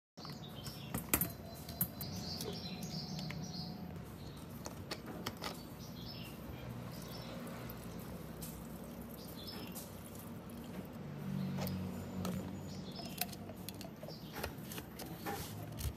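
Close-up handling sounds of a plastic chainsaw body: clicks and light knocks, small high squeaks, and liquid poured through a plastic funnel into the saw's tank, then the plastic tank cap screwed on near the end.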